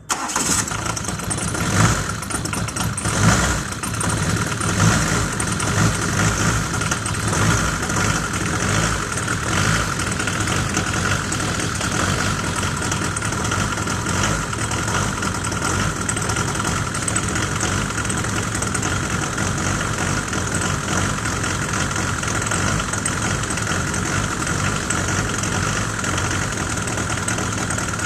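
Citroën BX 1.9 TD four-cylinder turbodiesel starting cold at once, running unevenly for the first few seconds, then settling into a steady idle with diesel knock. One cylinder is not firing, which the owner suspects may come from low compression.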